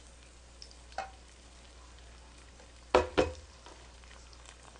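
Egg-battered mushroom slices frying in oil in an electric pan, a faint steady sizzle. A small click about a second in, then two loud metallic clanks about three seconds in as a stainless steel bowl is set down beside the pan.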